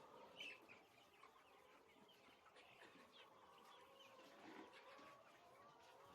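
Faint chirping and clucking of a flock of poultry chickens, many short calls overlapping.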